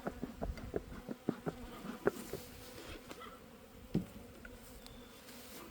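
Honeybees buzzing steadily around an open hive, with scattered light clicks and knocks and a sharper knock about four seconds in.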